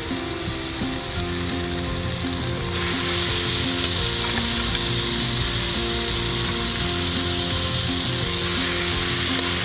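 Pieces of eel sizzling in hot oil in a wok as they are spooned in among sautéed vegetables. The sizzle grows louder about three seconds in.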